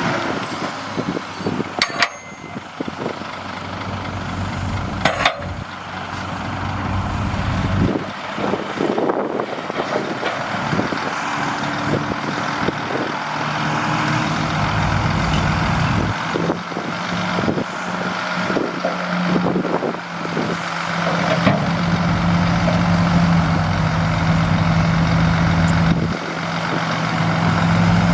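Heavy diesel earthmoving machine engine running, with two sharp knocks a few seconds apart early on. The engine note settles into a steady, stronger hum from about halfway through.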